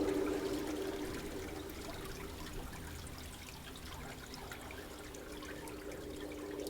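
Steady trickling water, with a low held tone fading out over the first couple of seconds and coming back near the end.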